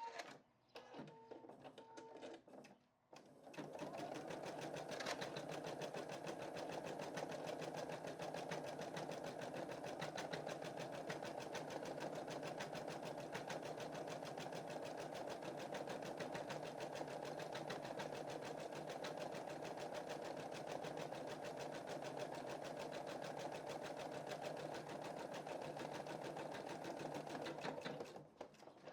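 Computerized embroidery machine stitching a design at a fast, even rhythm. It starts about three to four seconds in, after a few short tones and clicks, and stops shortly before the end.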